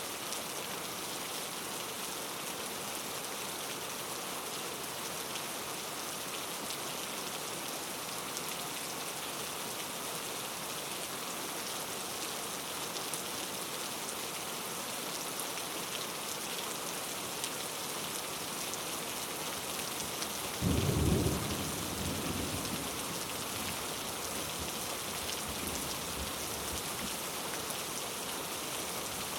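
Steady rain falling, with one thunderclap about two-thirds of the way through that rumbles away over a few seconds.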